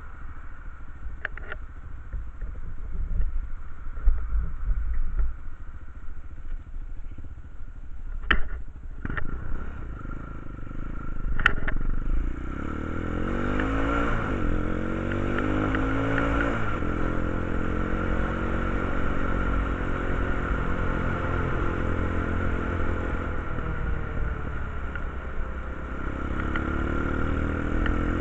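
Quad bike (ATV) engine running low with a few sharp clicks, then revved from about twelve seconds in, its pitch rising and falling several times before it settles into a steady run, with another rise near the end.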